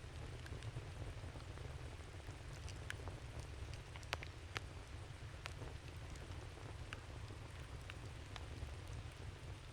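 Wood campfire crackling: scattered sharp pops and snaps, the two loudest about four seconds in, over a steady low rumble.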